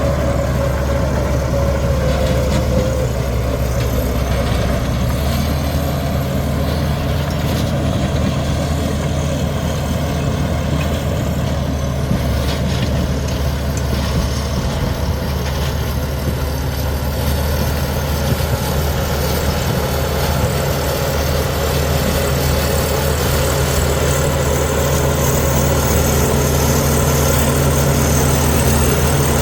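Heavy diesel earthmoving machinery running steadily with a low, even engine drone, and a faint whine during the first few seconds.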